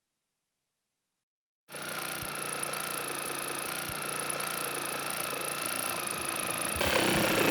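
Cordless jigsaw with a long blade starting suddenly about two seconds in and running steadily while cutting a wooden beam, with a steady motor whine; it gets louder near the end.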